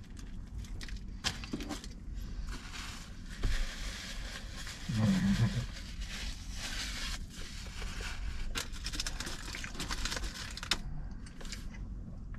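Close-miked chewing of a mouthful of bacon double cheeseburger: wet, crackly mouth sounds with small clicks. A short low hum comes about five seconds in.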